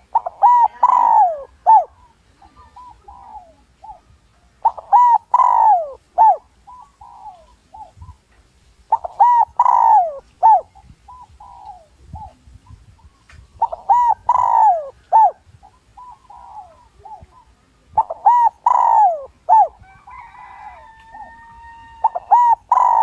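Spotted dove cooing: a lure male's territorial song, a short phrase of several rounded coo notes repeated about every four and a half seconds, six times. Near the end a steady whistle-like tone sounds for about two seconds.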